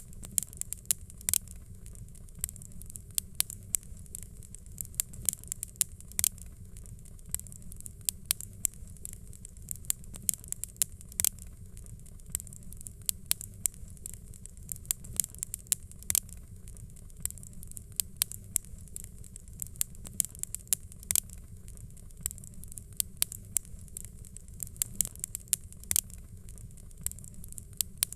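Fireplace fire crackling: frequent, irregular sharp pops and snaps over a low steady rumble.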